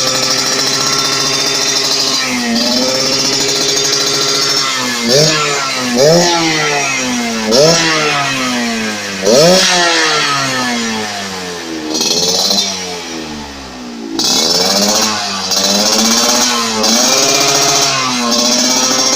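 Yamaha RX-King's two-stroke single-cylinder engine running through an aftermarket under-belly expansion-chamber exhaust with a crisp tone. After a few seconds of steady running it is blipped about four times in quick, sharp revs, with the pitch falling back between them. It then drops almost to idle and is revved again near the end.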